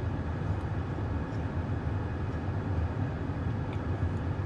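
Steady low rumble of a car running, with a few faint clicks over it.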